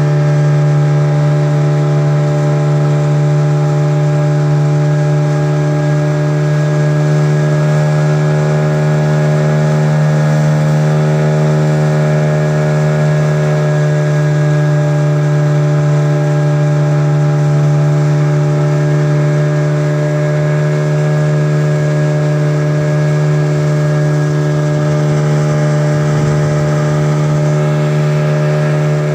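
Boat engine running steadily at a constant pitch, without revving.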